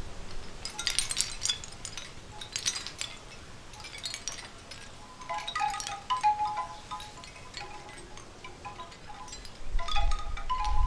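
Wind chimes tinkling in irregular clusters of light clinks and ringing tones, with a low rumble swelling near the end.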